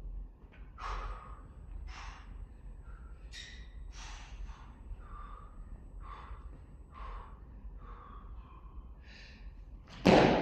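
A person breathing hard from exertion, with sharp breaths about once a second. Near the end comes a loud thud.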